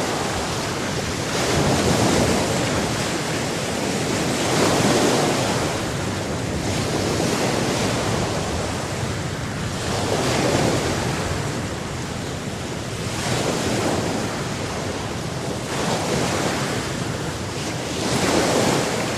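Sea waves breaking on the shore, the wash swelling and ebbing every few seconds.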